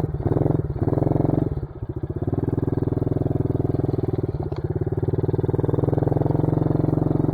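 Dirt bike engine running under throttle on a trail ride, with a brief drop in revs about a second and a half in, then pulling steadily.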